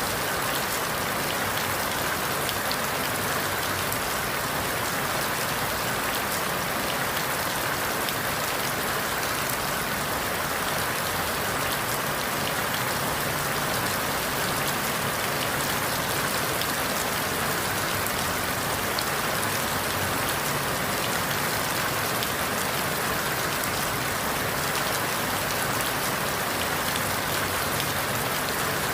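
Steady rain falling on forest leaves, an even hiss of countless drops.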